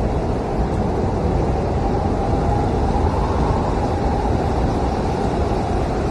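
Blizzard wind howling, a steady low rush with a faint whistle that swells slightly a few seconds in.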